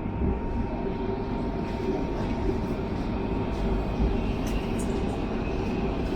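Steady running noise of a Jinshan Railway commuter train, heard inside the carriage: a low rumble with a faint steady whine over it.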